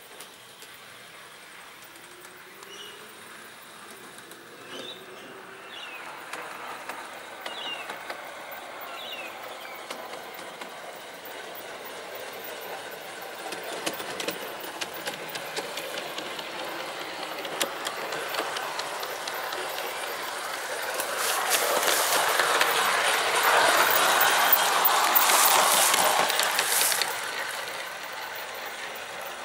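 A garden-railway model train running on outdoor track, its wheels clicking over the rail joints. It grows louder as it comes closer, is loudest a little over two-thirds of the way through, then drops off sharply near the end as it moves away.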